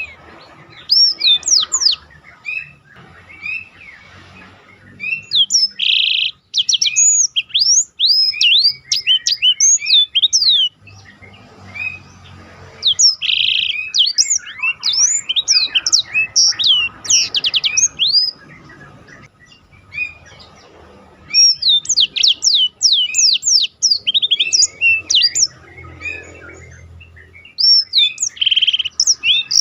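Black-throated canary (blackthroat) singing: bursts of rapid, sharp, high whistled notes a few seconds long, broken by short pauses, with a short dense trill now and then.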